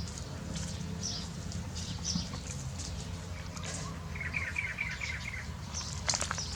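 Small birds chirping: short high chirps throughout and a quick run of about eight notes a little past the middle, over a steady low hum.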